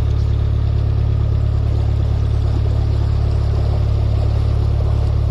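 Narrowboat's engine running steadily under way, a constant low drone.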